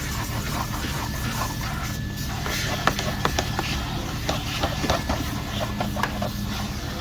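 Vacuum cleaner running steadily while dog hair is worked out of a car's interior, with a scatter of short clicks and knocks from the tool against the upholstery and trim, mostly in the second half.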